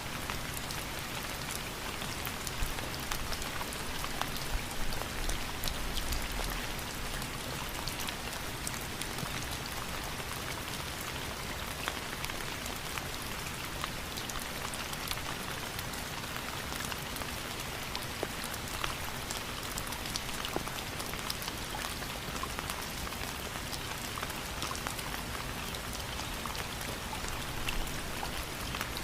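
Steady rainfall, with many individual drops ticking sharply on a surface over an even hiss.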